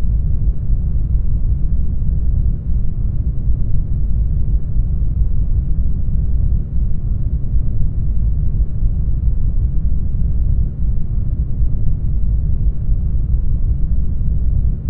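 Brown noise: a steady, deep hiss, strongest in the bass and growing fainter toward the treble.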